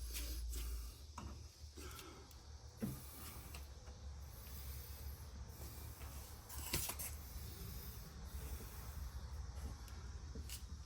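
Faint workshop background: a low hum and steady hiss with a few light knocks, one about 3 seconds in and a sharper one about 7 seconds in.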